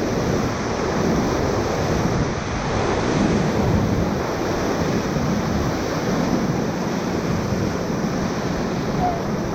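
Whitewater rapids of the Ocoee River rushing steadily around a raft, a continuous loud noise of churning water.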